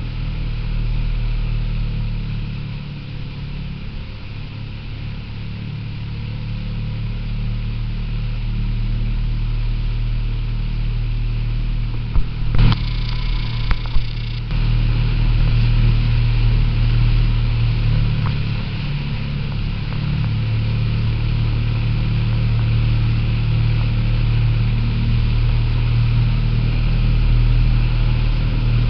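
Motorboat engine running steadily at speed, heard from aboard with water and wind noise over it. A brief cluster of knocks comes around the middle.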